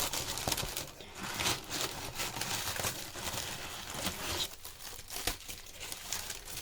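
Paper packaging being crumpled, rustled and torn by hand in irregular bursts as an item is unwrapped.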